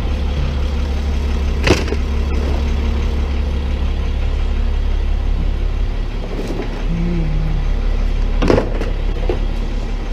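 Tow truck's engine idling with a steady low rumble, with two sharp knocks, one about two seconds in and one near the end.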